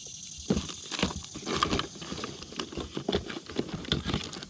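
Small bluegill being handled after landing, flopping and slapping with quick irregular taps and rustles over a steady hiss.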